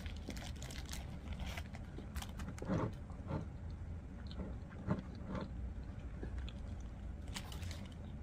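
A person eating a burrito close to the microphone: biting and chewing with soft wet mouth clicks and smacks, a couple of them louder about three and five seconds in.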